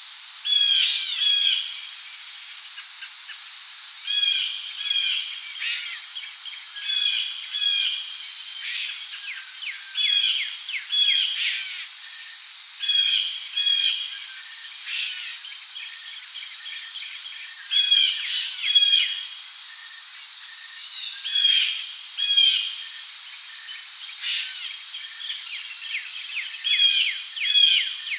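Tropical rainforest ambience: a steady high-pitched insect drone under many short, repeated bird chirps and calls, with a louder cluster of calls about two-thirds of the way through.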